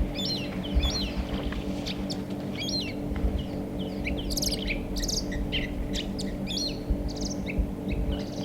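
Several birds chirping and calling, a quick run of short, bending high notes throughout, over a steady low hum.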